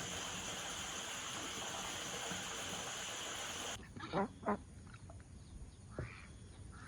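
A steady hiss that cuts off abruptly about four seconds in, then a duck quacking twice in quick succession, and once more, softer, about two seconds later.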